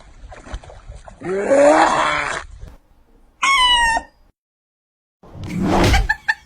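A pet animal vocalizing: a loud, rough, rising call, then a short high-pitched squeal. After a cut, a loud noisy burst follows, then a run of quick ticks.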